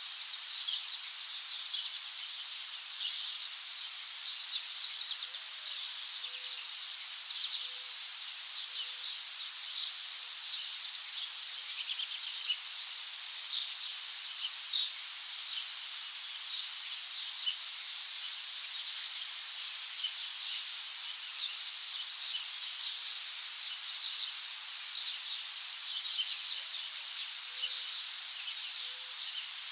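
A chorus of many small birds chirping and twittering together, a dense, steady stream of short high calls, with a few faint low hoots in short runs.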